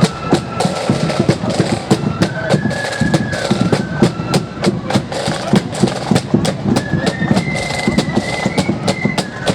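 Marching flute band playing: flutes carry a stepping melody over rapid snare drumming and bass drum beats.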